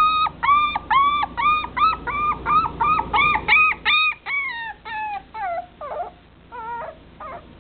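Long-haired dachshund puppy crying in a rapid run of high-pitched whines, about three a second, each a short even note. After about four seconds the cries grow weaker and slide down in pitch, trailing off near the end.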